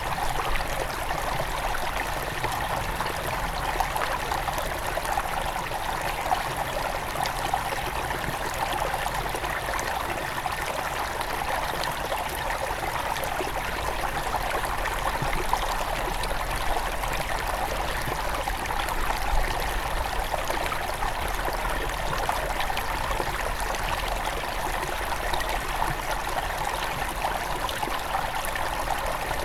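A small forest stream near its source, water flowing and trickling steadily over stones.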